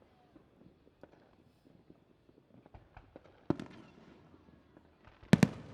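Aerial fireworks bursting: a single loud bang with a lingering tail about three and a half seconds in, then two loud bangs in quick succession near the end, with fainter pops and crackles between.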